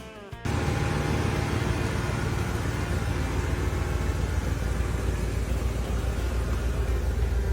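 A car engine running at a steady idle, close to the microphone, with a rapid uneven pulse; it cuts in about half a second in.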